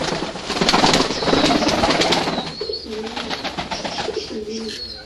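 Doves cooing: low, wavering coos through the second half, after a loud, noisy rustling stretch in the first half.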